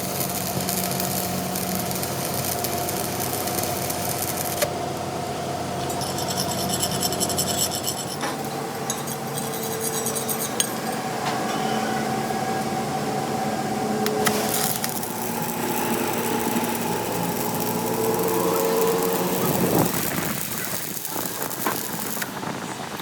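A workshop machine running steadily with a humming tone and a rattle. The hum changes about twenty seconds in, followed by a few sharp knocks.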